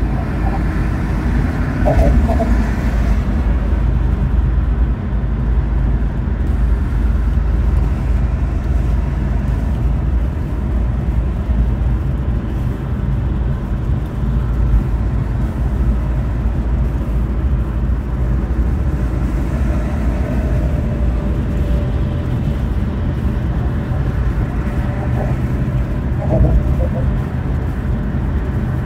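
Infiniti Q50 Red Sport 400 cruising at a steady speed, a constant low rumble of engine and road noise with no revving.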